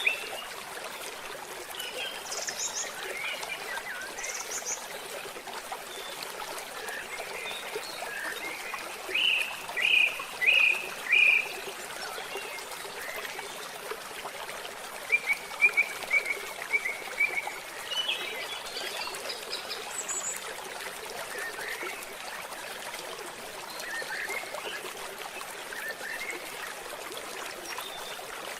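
Birds chirping and singing over a steady hiss, with louder runs of short chirps about nine to eleven seconds in and again around fifteen to seventeen seconds.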